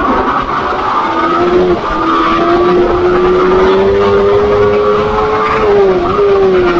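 Single-cylinder four-stroke pit bike engines racing: the nearest bike revs hard with its pitch climbing slowly and dipping at gear changes about two seconds in and near the end, with other bikes' engines running behind it.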